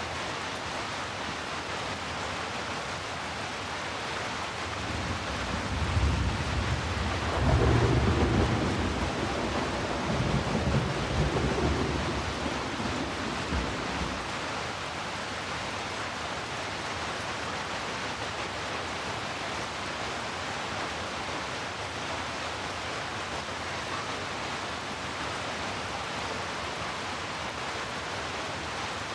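Steady heavy rain with a long low roll of thunder that builds about five seconds in, swells several times, and dies away about fourteen seconds in.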